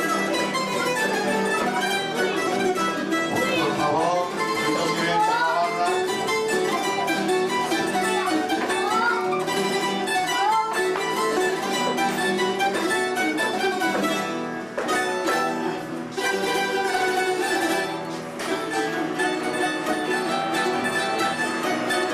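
A plucked-string trio of bandurria, lute and guitar playing a Cádiz carnival tango, with a continuous strummed and picked melody.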